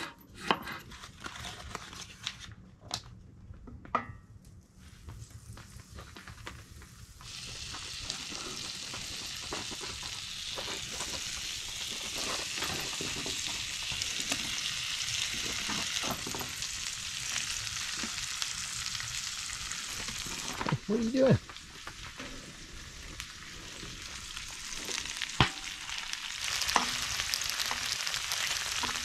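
A knife slicing baby potatoes on a wooden cutting board, a few sharp taps, then onions and potato slices sizzling in butter in a cast-iron skillet on a wood stove, stirred now and then. The sizzle dips briefly about two-thirds of the way through, then resumes.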